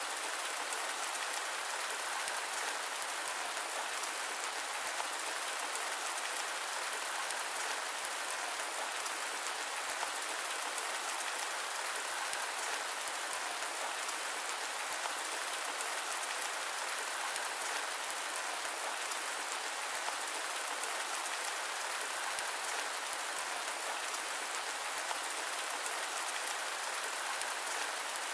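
Steady rain falling: an even, unbroken bright hiss with fine drop patter and almost no low rumble.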